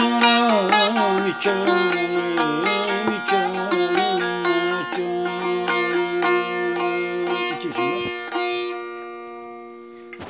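Turkish folk tune played on a plucked saz (bağlama): a quick picked melody over ringing drone strings, closing on a final held note about seven and a half seconds in that rings out and fades away near the end.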